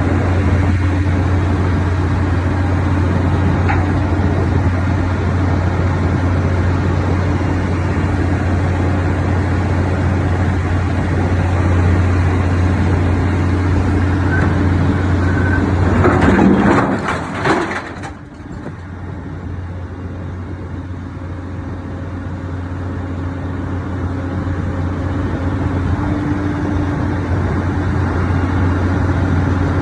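Sierra T550 logger-baler-shear's diesel engine running steadily under hydraulic load with a low drone. About sixteen seconds in comes a loud crunching burst as the shear bites through a steel truck frame, after which the engine note drops and slowly builds back up.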